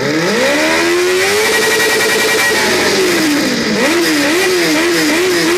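Lambretta scooter's two-stroke single-cylinder engine being revved, with the strange exhaust noise its owner complains of. The revs climb and hold high, ease off about three and a half seconds in, then are blipped quickly several times near the end.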